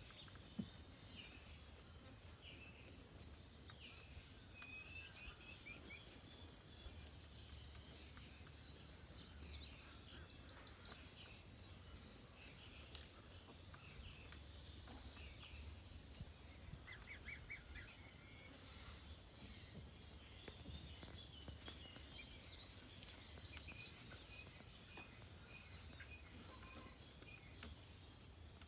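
Songbirds singing: a high, rapid trill sounds twice, about 13 seconds apart, with fainter chirps in between. A low, steady background hum runs underneath.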